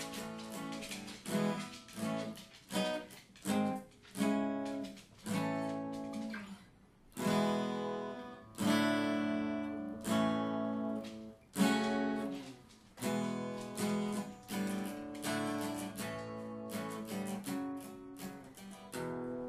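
Solo acoustic guitar playing an instrumental break: strummed chords that ring out and die away, each new chord struck every second or two.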